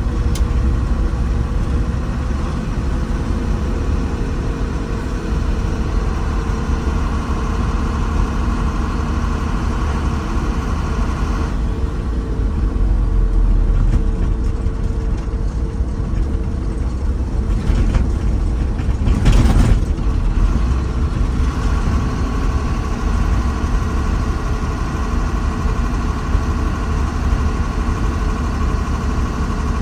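Diesel engine of heavy earthmoving equipment running steadily, its pitch and load shifting partway through, with a brief hissing burst about two-thirds of the way in.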